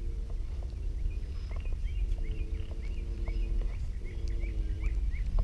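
Pondside outdoor ambience: a bird gives a quick series of short repeated chirps, over a low rumble of wind on the microphone. A low steady hum comes and goes in the background.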